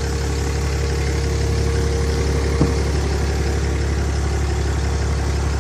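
Cummins 6.7-litre inline-six turbo diesel of a 2008 Ram 2500 idling steadily, with a single short click about halfway through.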